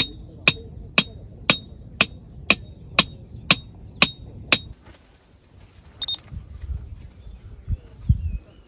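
Sharp metal-on-metal strikes, about two a second, each with a short ring, stopping about four and a half seconds in. A few dull low thumps follow near the end.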